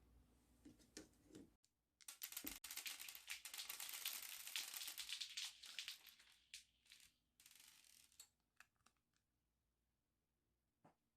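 Slime studded with pearl beads being pressed and worked by hand: a dense run of fine crackling clicks that starts about two seconds in and fades out after about five seconds, with a few light taps before and after.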